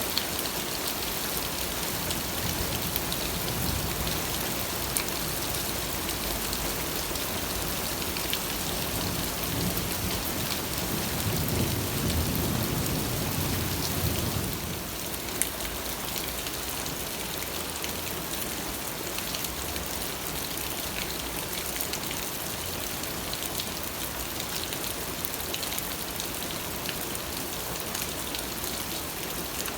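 Steady rain falling, with scattered sharp drop hits. A low rumble swells up about a third of the way in and stops suddenly around the halfway point.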